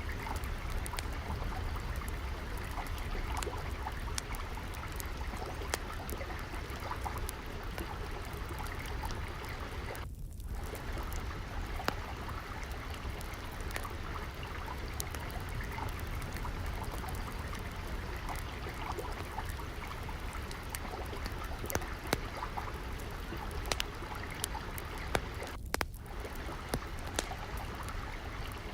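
Steadily flowing, trickling water over a low rumble, with sharp crackles of a wood fire scattered through it. The water sound drops out briefly twice.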